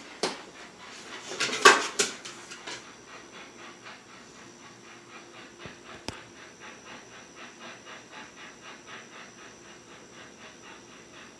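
A dog panting in a quick, even rhythm. A few louder noisy bursts come in the first two seconds.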